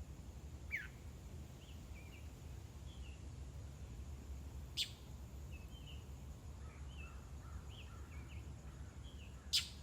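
A small bird chirping: short high chirps every second or so, with a falling note near the start and two louder, sharp sounds about five seconds apart, over a steady low rumble of background noise.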